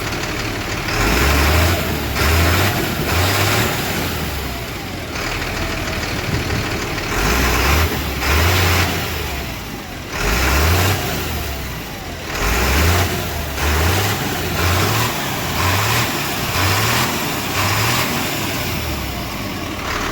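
Old Chevy pickup's engine revved again and again in short surges, coming quicker toward the end. The rear-wheel-drive truck is stuck in snow and ice with one rear wheel spinning, so it does not move.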